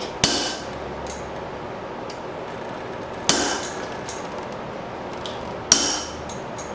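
Blacksmith's hammer striking steel on the anvil: three heavy blows a couple of seconds apart, each ringing briefly, with light taps between, while holes are punched through a hot steel bracket plate.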